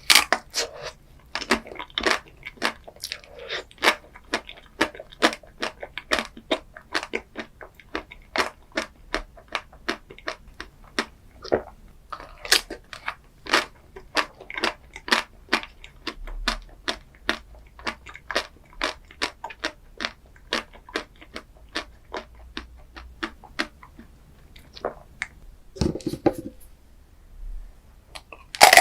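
Close-miked chewing of crunchy food: a steady run of crisp crunches, about two or three a second, with a short lower mouth sound near the end.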